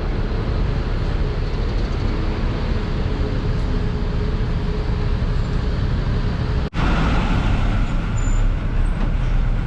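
Busy road traffic: motor vehicle engines running steadily, with a split-second dropout about two-thirds of the way through.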